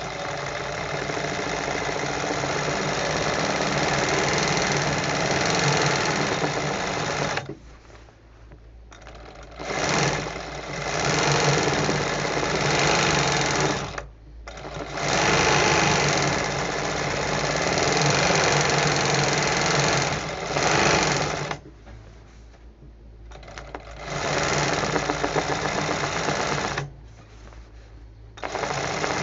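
Handle-type embroidery sewing machine stitching in runs of several seconds, stopping four times for a second or two and starting again each time.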